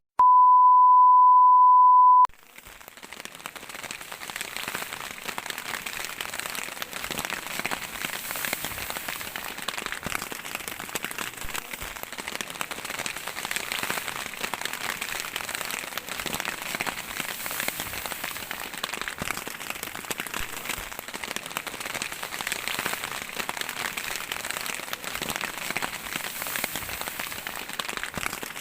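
A loud, steady electronic beep at one pitch for about two seconds, then steady rain falling, fading in and continuing as a dense patter.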